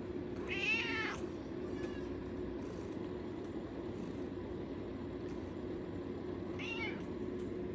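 American Shorthair cat meowing twice, begging for treats: a longer, wavering meow about half a second in and a shorter one near the end. A steady low hum runs underneath.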